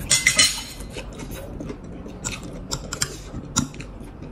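Crisp crunching of a fried lumpia wrapper being chewed, loudest in the first half second. Scattered light clicks and taps of a metal spoon against a glass dipping bowl follow.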